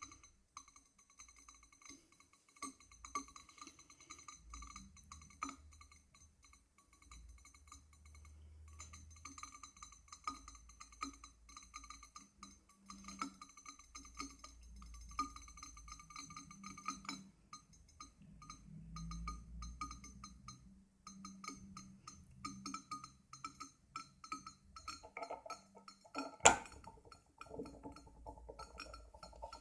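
Glass vacuum coffee maker giving many small ticks and clinks, with one sharp glass clink about three-quarters of the way through.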